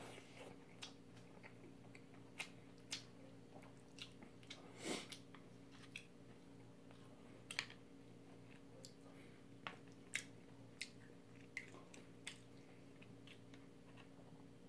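A person quietly chewing a mouthful of jjamppong, with scattered soft clicks and mouth smacks about every second or so, over a faint steady hum.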